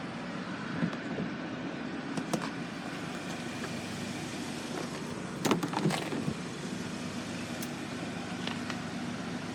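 Steady low hum of a 2015 Hyundai Santa Fe heard from inside its cabin, with a couple of sharp clicks about two seconds in and a short cluster of louder clicks and knocks at about the middle.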